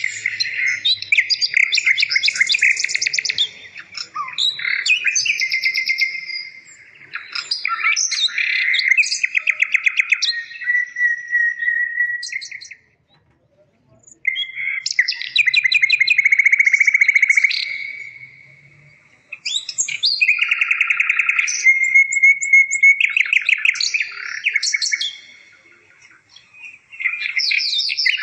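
A bird singing long phrases of rapid trills and chirps, with a few brief pauses, the longest about halfway through.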